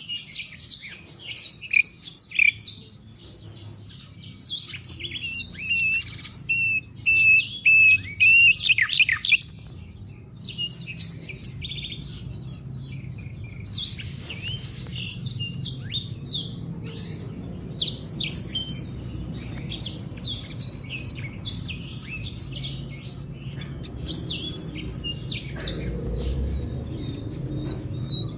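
Songbird chirping and twittering in fast, high phrases broken by a few short pauses, with a lower warbling note held for a few seconds near the middle.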